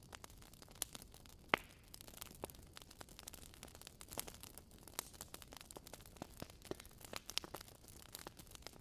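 Wood fire crackling: irregular sharp pops and snaps, the loudest about a second and a half in, over a faint steady hiss.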